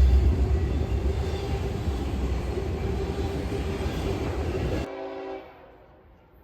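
Freight train passing close by, its distributed-power locomotive and cars rumbling, the sound fading steadily as it moves away. The sound cuts off abruptly about five seconds in.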